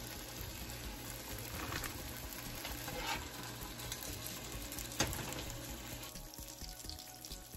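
Pork gyoza sizzling in hot oil in a nonstick frying pan, a steady frying hiss with a few sharper crackles.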